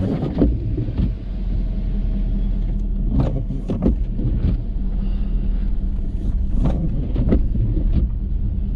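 Ford F-350 pickup's engine running steadily with a low hum, with a few brief knocks or rattles over it.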